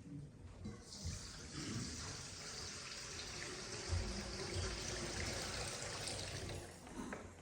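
Water being poured into a baptismal font, a steady trickle that starts about a second in and stops near the end.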